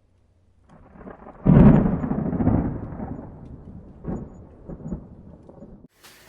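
A thunder crash that swells in about a second in, hits hard, then rolls away into a long rumble with a few fainter rolls later on.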